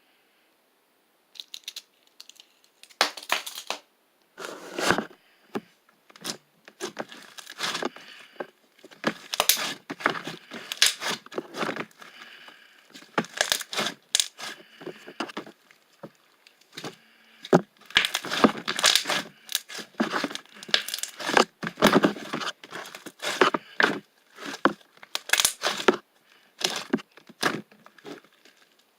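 Close, irregular crinkling and crackling of something being handled, scrunched and pressed, in quick uneven bursts with short pauses between them.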